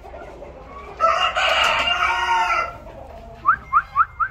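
A rooster crows once, a loud call of under two seconds starting about a second in. Near the end a bird gives a quick run of short rising chirps, about four a second.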